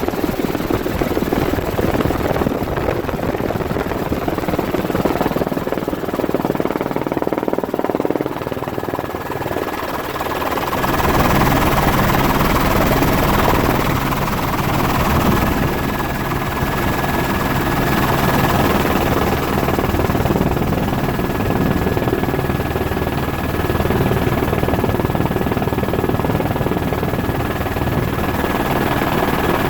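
Helicopter running: steady rotor and engine noise, growing fuller and a little louder about ten seconds in.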